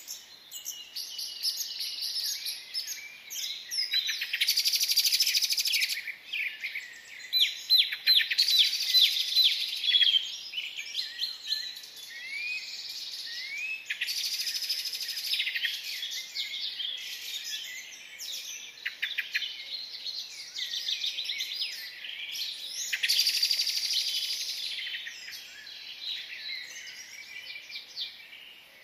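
A dense chorus of small birds chirping and trilling, many calls overlapping, with louder stretches of rapid chirping a few seconds in, around ten seconds, and again a little past twenty seconds.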